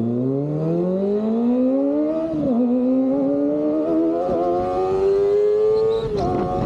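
Kawasaki ZX-25R's 250 cc inline-four, breathing through an Austin Racing aftermarket exhaust, accelerating hard: the revs climb steeply, drop sharply on an upshift about two and a half seconds in, climb again more slowly, and drop on another upshift about six seconds in.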